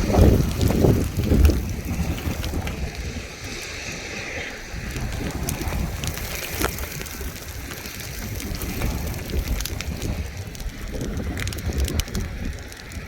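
Gusty wind buffeting the microphone, strongest in the first second or two, with a few scattered sharp ticks.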